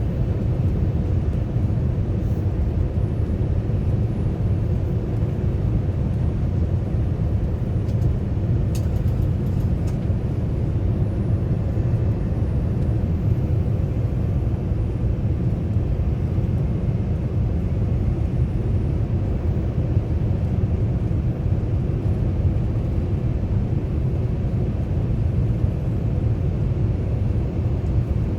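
Steady low rumble inside the cabin of a Boeing 787-9 airliner in flight on approach, from airflow and engine noise, with a faint steady tone. A few faint ticks about nine seconds in.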